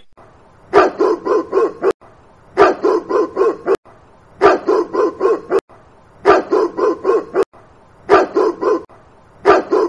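A dog barking in quick runs of four or five barks, a new run about every two seconds.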